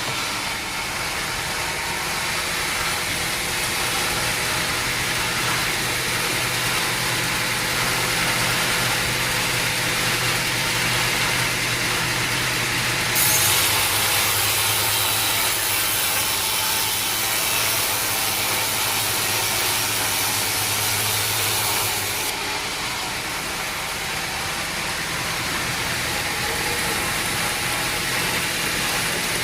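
Sawmill machinery running steadily: an engine hum under a hiss. The sound changes abruptly about 13 seconds in, brightening, and again about 22 seconds in.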